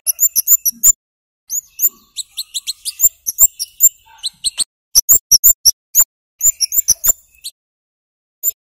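Scarlet-headed flowerpecker (kemade) giving loud, sharp, high 'cit' calls in quick runs of several notes, broken by short pauses, with one lone note near the end.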